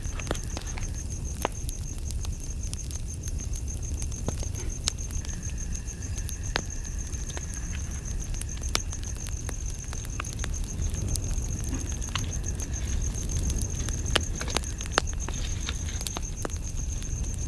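Campfire crackling, with many scattered sharp pops over a low rumble. An insect trills steadily in the background as a high, rapid pulsing note.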